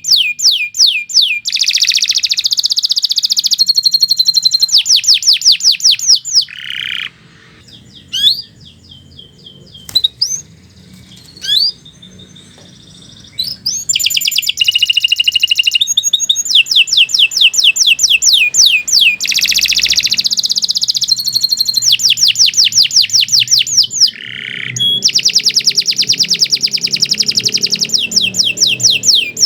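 Domestic canary singing: long runs of rapid trills and fast repeated high sweeping notes, broken by a quieter stretch of scattered short notes about a quarter of the way in before the trilling resumes.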